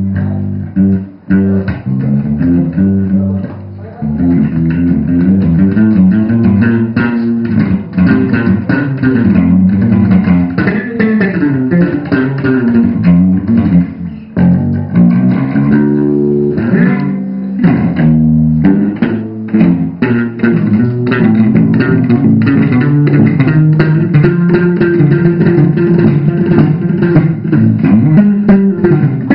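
A band rehearsing live, with electric bass and guitar playing a steady, busy groove; the music briefly drops away twice before picking up again.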